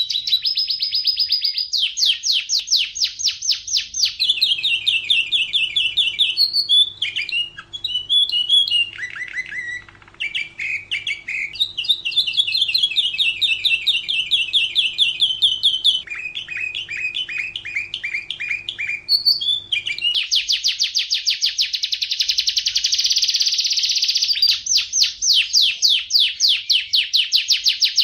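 Domestic canary singing a long, continuous song of fast trills, each phrase a rapid run of repeated notes that changes speed and pitch from one phrase to the next, with a few downward-sliding notes in the middle. A faint steady hum sits under the middle of the song.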